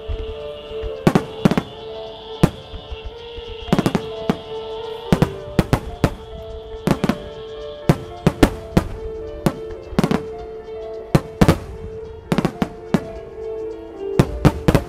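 Starmine fireworks bursting in sharp, irregular bangs, often several in quick succession, over steady music held in long notes.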